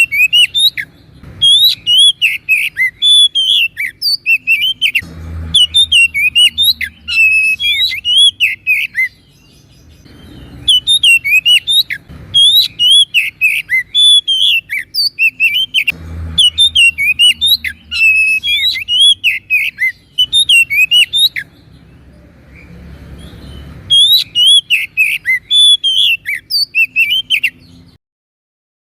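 Oriental magpie-robin (kacer) singing hard in long bursts of rapid, varied chirps and whistles, with a few short breaks. The sound cuts off abruptly near the end.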